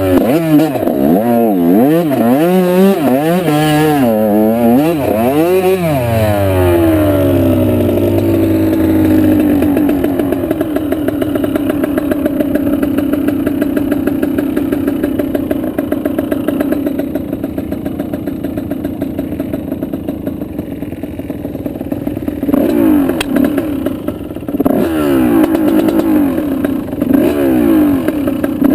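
Off-road motorbike engine revving up and down repeatedly as the throttle is worked for the first several seconds. It then runs at a steady pitch for about fifteen seconds, before the revs rise and fall again near the end.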